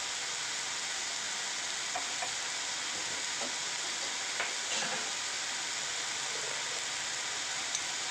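Sliced onions and tomatoes sizzling steadily in hot oil in a kadai, sautéing into a masala base, with a few small pops.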